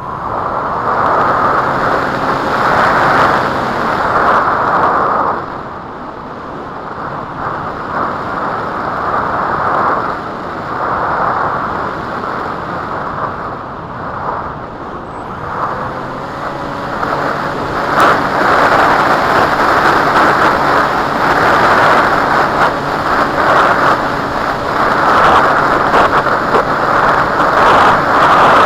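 Strong wind buffeting the microphone, swelling and easing in gusts.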